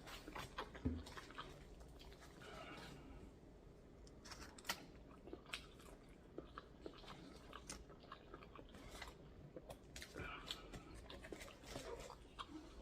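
A person chewing and biting into a fried hot chicken sandwich close to the microphone: faint, scattered mouth clicks and small crunches.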